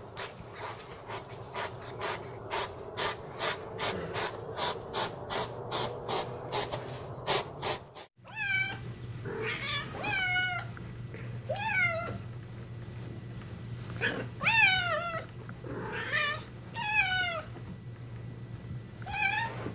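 A hedgehog snuffling with a rapid run of sharp clicks, about three a second. About eight seconds in it cuts to a domestic tabby cat meowing repeatedly, about eight meows, each bending in pitch.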